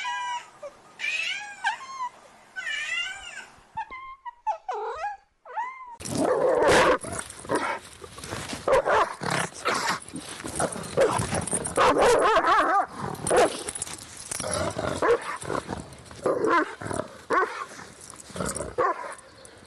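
A cat meowing several times, wavering in pitch. About six seconds in, a dog starts growling, continuous and loud, until near the end.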